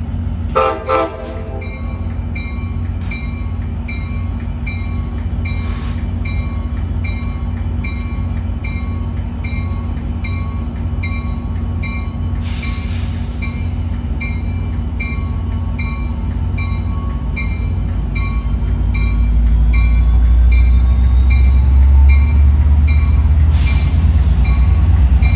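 An approaching Amtrak passenger train: a deep diesel locomotive rumble that grows louder over the last several seconds, with a bell ringing steadily at about two strokes a second.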